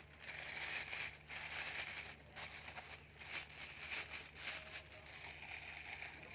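Ripe durian husk being pried apart by hand, with irregular crackling and crunching as the spiny shell splits along its seams.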